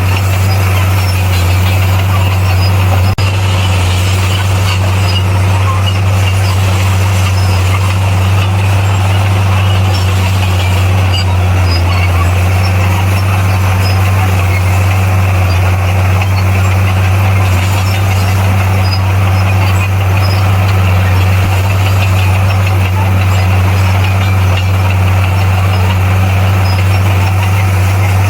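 Bulldozer's diesel engine running steadily with a deep, even hum, and a single faint click about three seconds in.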